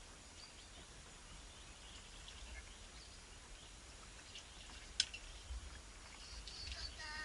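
Faint, scattered high-pitched bird chirps, growing busier near the end, with one sharp click about five seconds in.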